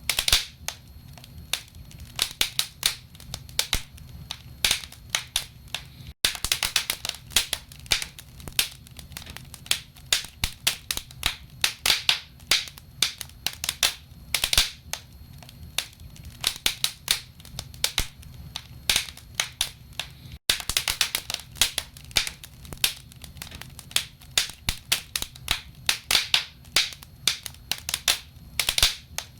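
Wood fire crackling in a fireplace: dense, irregular sharp pops and snaps of burning logs over a steady low rumble. The sound cuts out for an instant twice.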